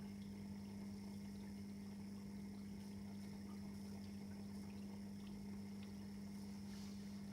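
Hotpoint washing machine running a quick wash: a steady, unchanging low hum with a faint high whine and some water noise.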